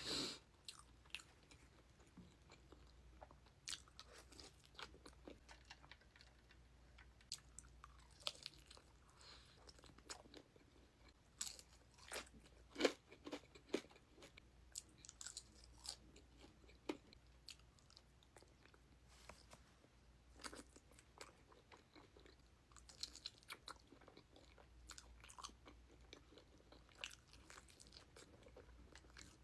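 A person chewing and biting into a meal of chicken wings and potato wedges, quietly, with many scattered short crunches and mouth clicks; the loudest bites come about twelve to thirteen seconds in.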